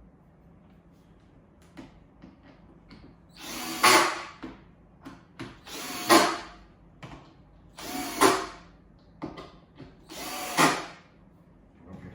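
Power drill driving screws into a board: four short runs of about a second each, with light handling clicks between them.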